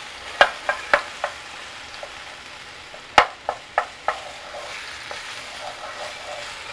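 Frozen minced garlic frying in olive oil in a pan, stirred with a wooden spatula: a steady sizzle with sharp spattering pops, a cluster in the first second and another about three seconds in, the loudest of them there.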